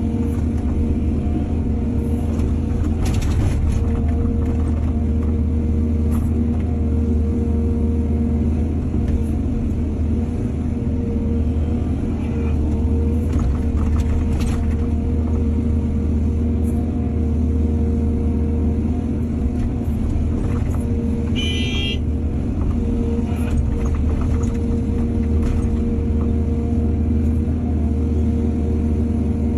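Heavy diesel engine of an excavator running steadily at work, with occasional knocks and clanks and a short high-pitched tone about 21 seconds in.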